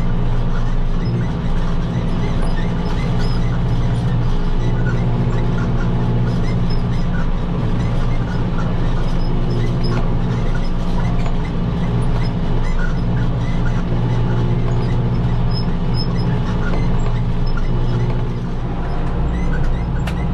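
Tractor engine running steadily at working speed while baling hay with a square baler.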